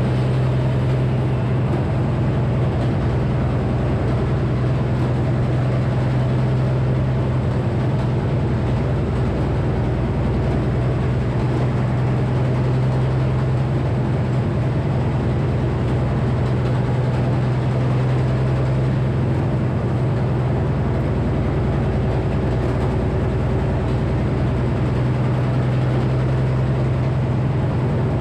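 Frick sawmill with its 48-inch circular saw running steadily, a constant low machine hum under a wash of mechanical noise.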